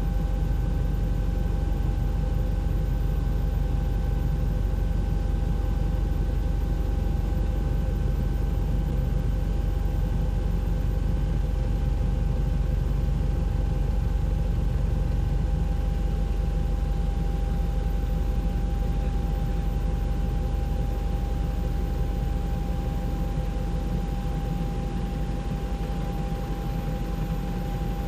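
Helicopter rotor and engine noise heard from on board: a steady low rumble with a constant whine over it, easing slightly near the end.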